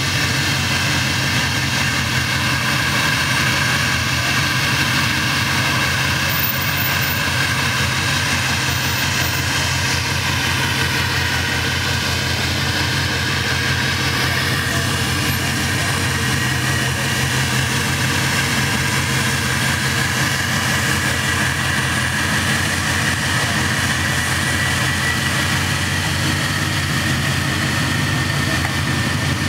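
A 1985 Chevrolet Monte Carlo SS's V8 engine idling steadily, with a steady higher whine over it.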